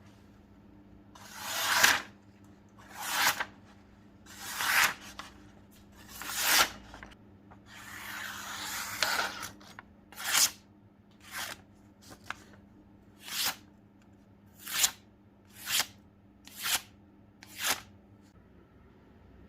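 Steel blade of a restored butcher's cleaver drawn in about a dozen separate scraping strokes. The first strokes are slower and swell up, with one longer drawn-out stretch near the middle; the later ones come shorter and crisper at about one a second.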